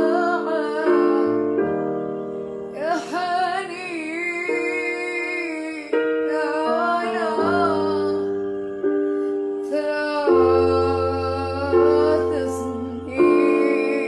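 A woman singing a slow melody with vibrato over held keyboard chords that change every second or two.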